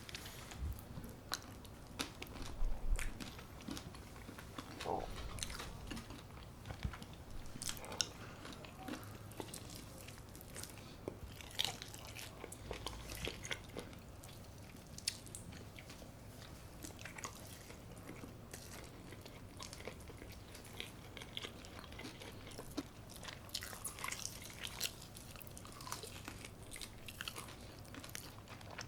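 A person eating close to the microphone: bites with crisp crunches, then chewing, with irregular small clicks and crackles throughout.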